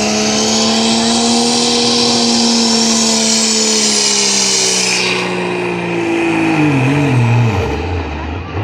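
Truck engine running at full power under load in a truck pull, holding a high steady pitch with a loud hiss over it. The hiss cuts off about five seconds in, then the engine pitch falls steeply as it winds down to a low rumble near the end.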